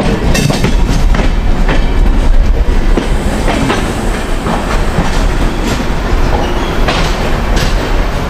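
Deccan Express passenger train running on the rails, recorded from on board, with its wheels clacking irregularly over the rail joints as it runs along the platform.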